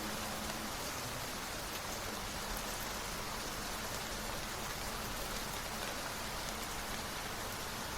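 Steady rain: an even hiss of rainfall with faint scattered drop ticks.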